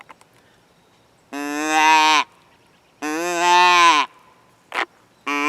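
Cash's Custom Calls adjustable flex-tube deer grunt call, O-ring slid up to its high setting, blown to imitate a doe bleat: two drawn-out nasal bleats of about a second each, a third starting near the end.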